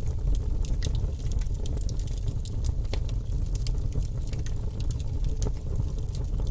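Fireplace fire crackling: many quick, irregular snaps and pops over a steady low rumble.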